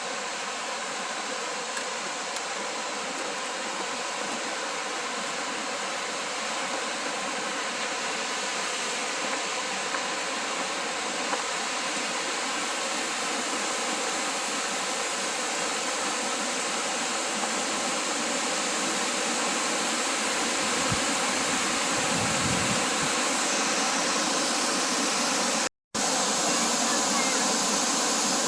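Waterfall rushing: a steady, even hiss of falling water, cut off for a moment about 26 seconds in and then carrying on slightly louder.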